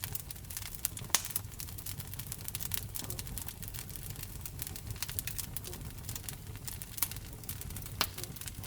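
Wood fire burning in a fireplace: frequent sharp crackles and pops over a steady low rumble of the flames, with louder pops about a second in and near the end.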